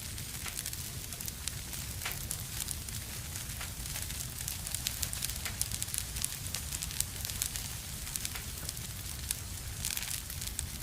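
Wood fire burning in a fireplace: a steady low rumble of flames with frequent sharp crackles and pops, busiest in the middle.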